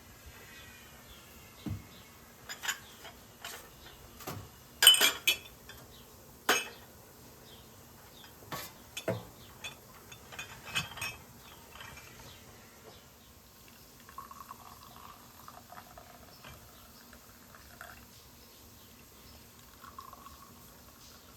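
Cookware and utensils clinking and knocking, a scattering of sharp clinks that is loudest around five seconds in and dies away after about twelve seconds.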